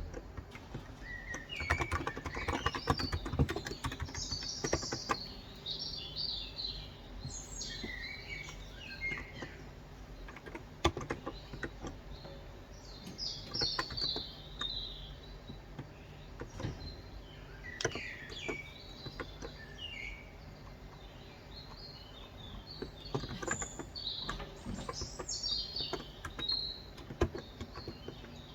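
Small birds chirping in several bouts of quick, high twittering, over scattered keystrokes from a Cox Endeavor electrostatic capacitive keyboard with 35 g switches typed in short, irregular runs.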